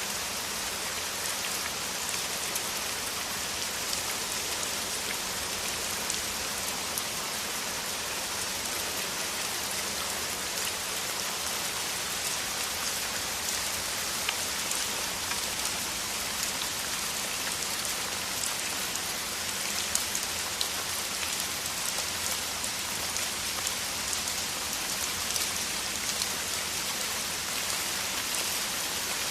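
Steady heavy rain, a dense even hiss with many small drop ticks on top.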